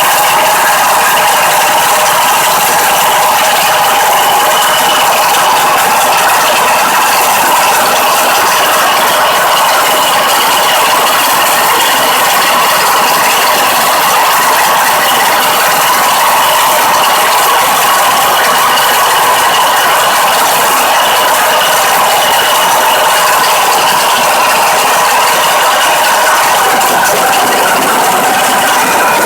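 MOROZ 1300 mm pumpkin-harvesting combine with its 16 hp petrol engine, running steadily at work. It makes a loud, even mechanical noise from its working parts.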